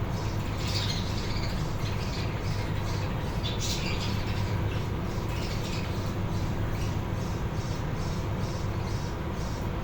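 Budgies chirping and chattering in quick, repeated short calls, with louder squawks about a second in and near four seconds, over a steady low hum.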